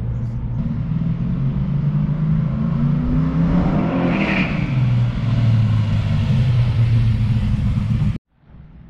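565 ci big-block Chevrolet V8 in a Holden HQ Monaro driving past, its engine note rising as it approaches and dropping in pitch after it goes by about four seconds in. The sound cuts off suddenly near the end.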